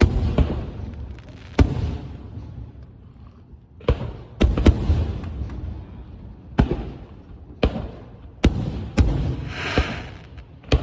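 Aerial firework shells bursting: about nine sharp bangs at irregular intervals, each trailing off in a low rumbling echo, some in quick succession.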